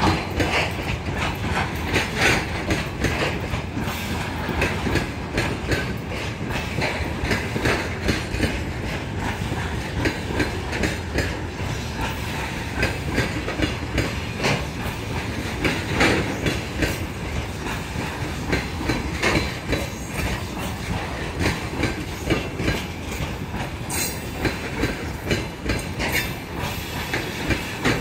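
Covered hopper wagons of a freight train rolling slowly past, their wheels clacking over the rail joints in an uneven run of knocks over a steady rumble.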